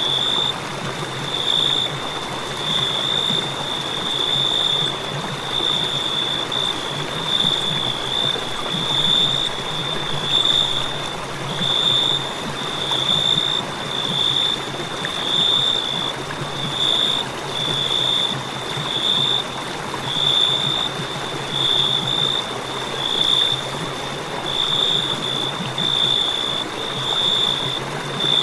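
Crickets chirping: a high, pulsing trill that swells in short bursts about once a second, over a steady background hiss.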